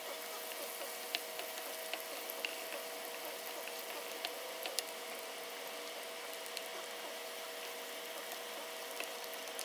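Chopped onion frying in hot oil and ghee in a wok over a high flame: a steady sizzle with scattered small pops and crackles, over a steady faint hum.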